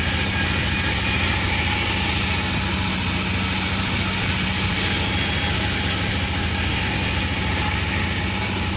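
Sawmill machinery running steadily: a constant drone with a low hum.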